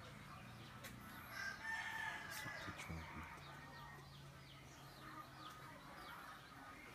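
A bird calls once, a single drawn-out call of about a second and a half starting a little over a second in. Small birds chirp in short falling notes after it.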